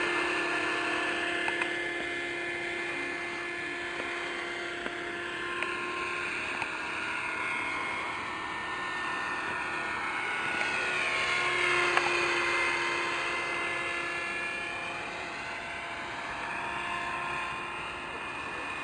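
Electric RC helicopter in flight: a steady high whine from its electric motor and rotors, swelling to its loudest about twelve seconds in as it comes closest, then easing off.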